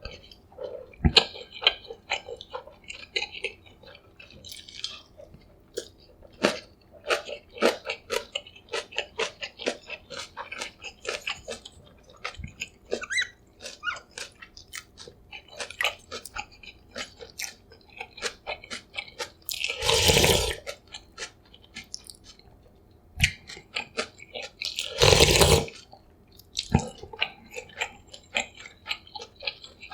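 Close-miked eating: steady chewing with many small wet mouth clicks and smacks. Twice in the second half comes a longer, louder slurp.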